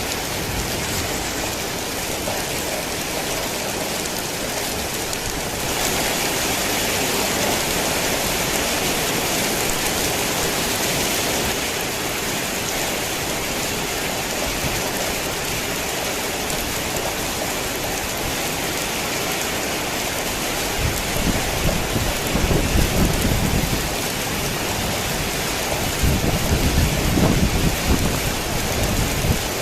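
Heavy rain falls steadily as a dense hiss, growing heavier for a few seconds about six seconds in. In the last third, two low rumbles of distant thunder swell and fade.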